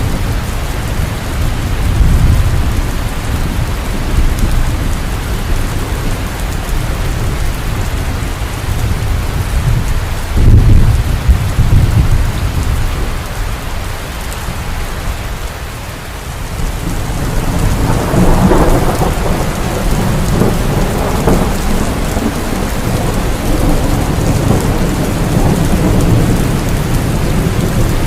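Heavy rain falling steadily, with thunder rumbling low underneath. The rumble is loudest about ten seconds in, and another swell of thunder builds from about two-thirds of the way through.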